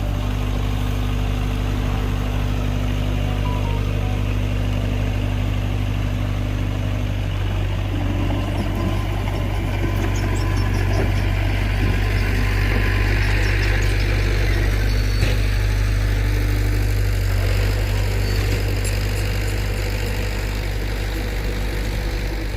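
Heavy diesel engine of earthmoving machinery running steadily with a deep hum. About a third of the way in, a rougher working noise joins it, heaviest a little past the middle.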